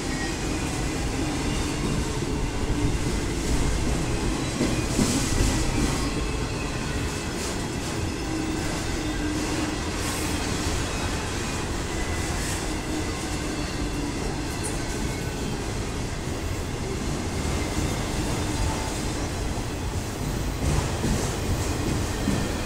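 Autorack freight cars rolling past on steel wheels: a steady rumble and rattle on the rails, with a few sharp clacks over rail joints and a faint wheel squeal.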